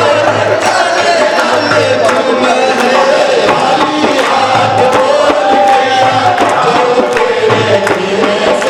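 Group of voices singing a devotional Shyam bhajan over a steady drum beat and percussion.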